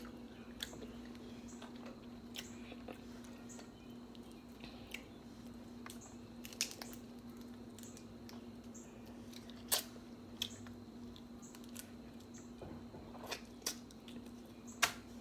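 Close-up eating sounds of someone chewing lobster tail: soft, scattered wet clicks and smacks of the mouth, a few sharper ones standing out, over a steady low hum.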